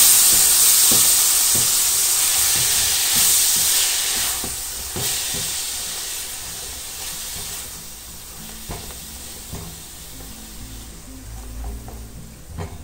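Diced calabresa sausage, bacon and onion sizzling in lard in an aluminium pan on high heat. A silicone spatula stirs the food and scrapes and taps against the pan now and then. The sizzle gradually dies down over the few seconds as the onion softens.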